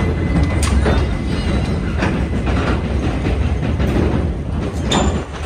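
Passenger train coaches rolling across a steel girder railway bridge, heard from close below: a heavy, steady rumble with several sharp metallic clanks as the wheels pass over the rail joints.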